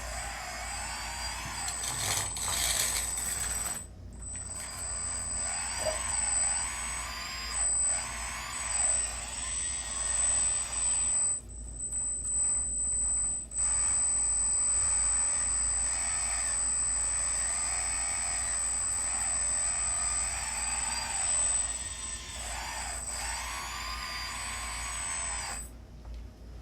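Electric motors of a radio-controlled construction model whining as the machine is worked, their pitch rising and falling with each movement over a steady high whine. The sound drops out briefly about four seconds in and again for a couple of seconds near the middle.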